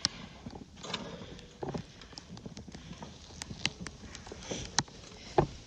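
Goat hooves moving about a barn stall: scattered, irregular taps and knocks.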